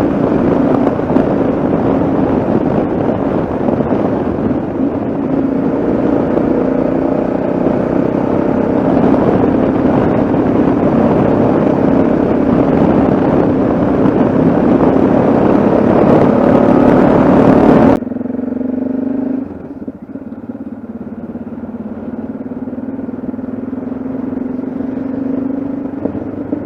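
Yamaha XT660Z Ténéré single-cylinder engine running at a steady cruise, heard with loud wind rush over the microphone. About two-thirds of the way in, the rush cuts off suddenly and the engine note goes on quieter.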